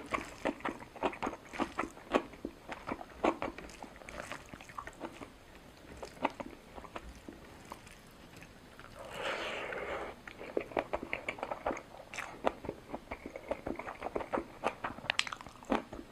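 Close-up chewing and biting sounds of a person eating a lunch of rice, sabzi, roti and dal: many short wet mouth clicks, with a longer noisy sound about nine seconds in.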